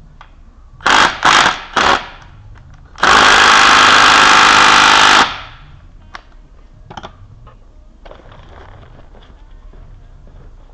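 A power tool run in three short bursts, then one longer burst of about two seconds.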